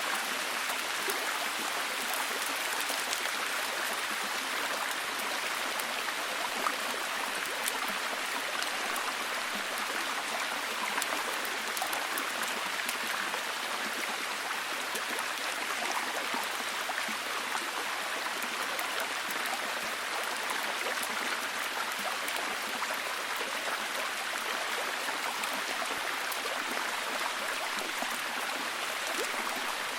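Steady, heavy rain falling, an even hiss with many small drop ticks.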